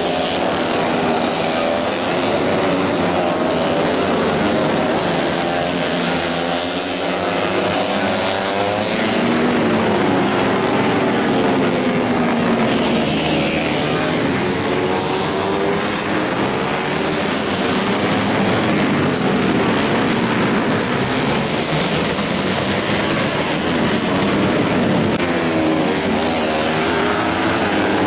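Several racing motorcycle engines running at high revs, their pitches rising and falling as they accelerate, shift and pass, with a constant hiss behind them.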